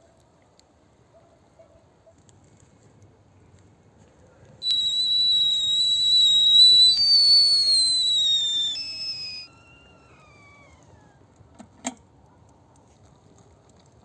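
A loud, high whistling tone starts suddenly and holds steady for about two seconds. It then steps up in pitch and slides downward, fading out over a few seconds. A single sharp click follows.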